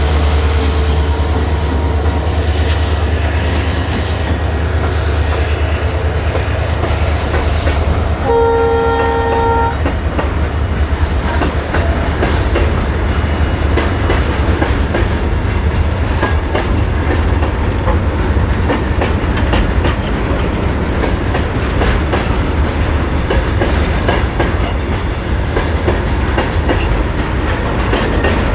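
Indian Railways train running past close by, with a steady heavy rumble and wheels clattering on the track. One horn blast sounds about eight seconds in and lasts about a second and a half.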